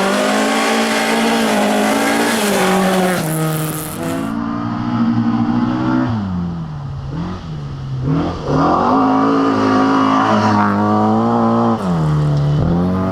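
A rally-prepared Ford Escort's engine run hard at high revs. The pitch steps up and down with gear changes and lifts off the throttle, falls away about six seconds in, climbs again after eight seconds and drops near the end.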